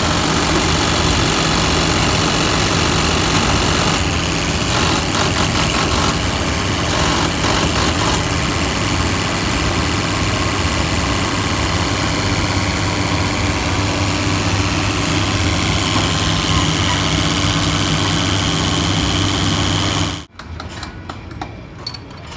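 Tractor diesel engine idling steadily on its restored injection pump. The sound stops abruptly about twenty seconds in, leaving faint clinks.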